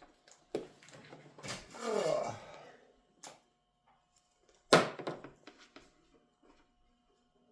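Handling sounds: a small click, then one loud, sharp knock about five seconds in, followed by a few lighter clicks, with a faint steady hum behind.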